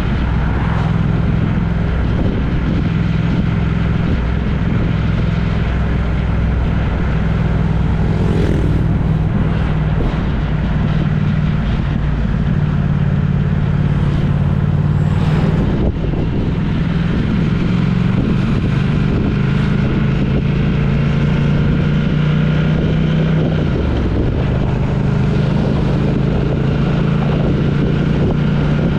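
A road vehicle's engine running steadily under road noise, its low hum shifting pitch several times as the engine speed changes.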